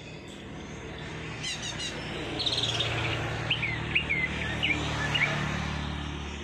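Small songbirds chirping: a quick run of high chirps, a short buzzy trill, then about five short whistled notes, over a steady low hum.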